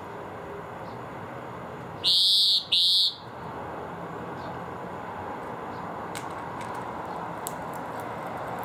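Two loud electronic beeps, each about half a second long, one right after the other about two seconds in, over a steady background hum of distant city traffic.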